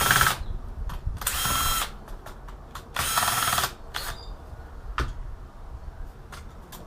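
Cordless drill-driver backing out screws in three short bursts about a second and a half apart, with a steady motor whine in each. Light clicks and taps of screws and metal parts follow, one sharper click about five seconds in.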